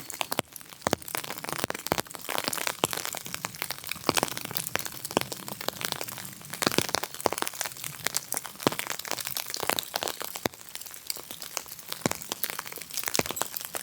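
Dense, irregular crackling and crunching: many small sharp cracks, close together and uneven, with no steady rhythm.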